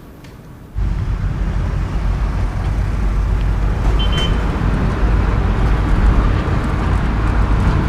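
Car on the move: a steady, low road-and-engine rumble that starts abruptly about a second in.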